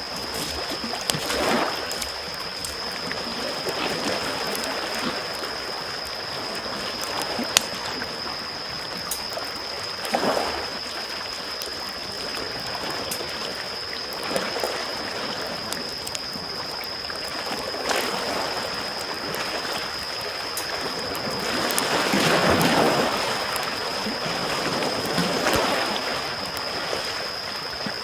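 Small waves lapping on a shore, swelling in every few seconds with the biggest wash about two-thirds of the way through, over the scattered crackles and pops of a wood campfire. A thin steady high tone sits underneath.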